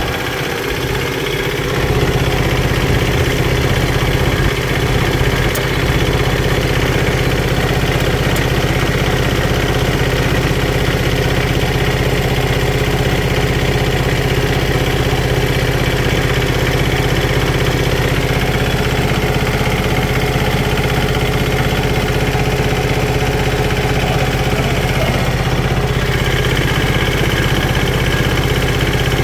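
An engine idling steadily at a constant pitch.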